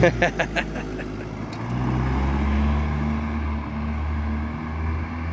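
Car engine running close by as cars pull away, its low hum growing louder about two seconds in and then holding steady.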